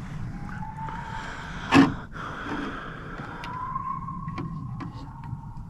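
Hounds howling in the distance on a deer drive, in long drawn-out calls that rise and then hold. A single loud knock close by comes about two seconds in.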